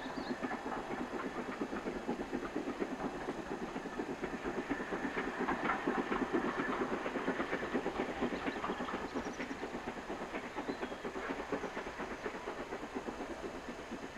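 Steam-hauled train passing, its wheels clattering over the rail joints with a hiss of steam, growing louder toward the middle and then fading.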